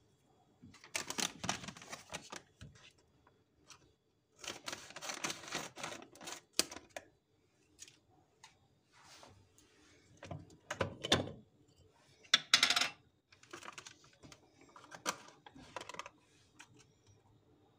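Household items being handled while a pantry cupboard is cleared and reorganised: irregular bursts of clicking, clattering and rustling, with the loudest clack about twelve and a half seconds in.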